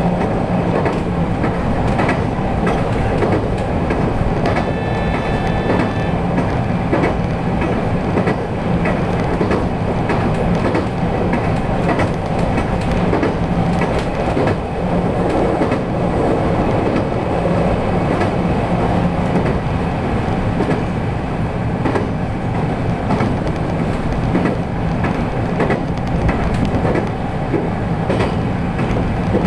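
JR West 223 series electric train running at speed, heard from inside the carriage: a steady rumble of the running gear with wheels clicking over the rail joints. A brief high-pitched tone sounds about five seconds in.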